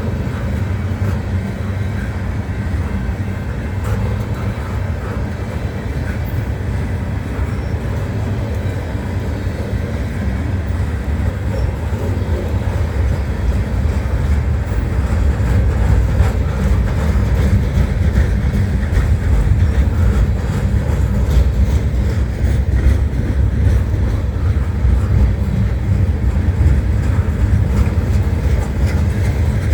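Loaded freight train rolling past, its cars giving a steady, loud low rumble of wheels on rail that grows a little louder about halfway through.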